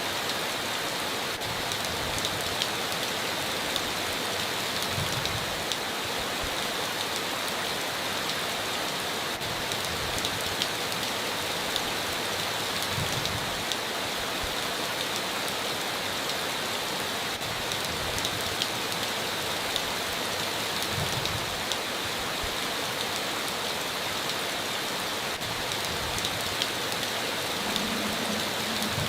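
Steady heavy rain, a constant hiss with the patter of individual drops striking a surface.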